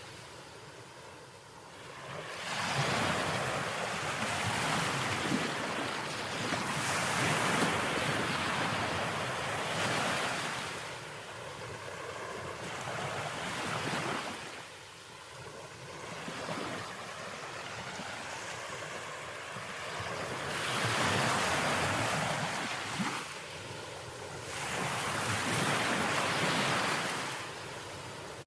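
Ocean surf: waves breaking and washing in, the rushing noise swelling and fading in surges every few seconds.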